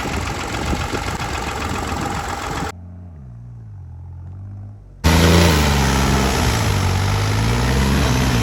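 Tractor diesel engine running, in three abruptly cut stretches. It is loud and rough at first, goes quieter from about three seconds in with its pitch sliding down and back up, then is loud again from about five seconds in, its pitch dipping and rising as it is revved.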